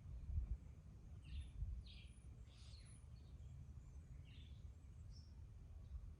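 Garden birds calling in short, high chirps, four or five separate calls over a low background rumble.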